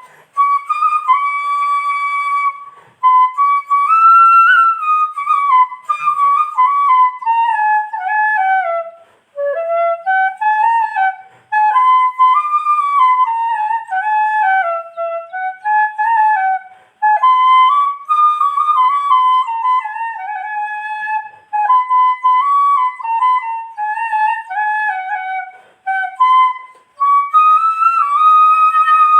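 Background music: a solo flute playing a slow, wandering melody in phrases separated by short breaths, with no accompaniment underneath.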